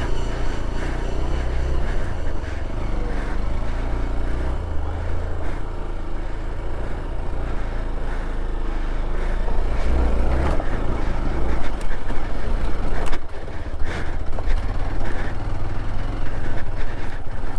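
Hero XPulse 200 4V's single-cylinder engine running on an off-road ride, with a steady low hum that rises and falls in level. A few sharp knocks come about thirteen seconds in.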